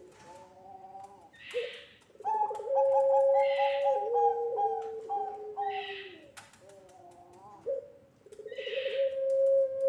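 Puter pelung turtle dove cooing: long, drawn-out coos that hold a steady pitch and then step down, the longest lasting several seconds in the middle.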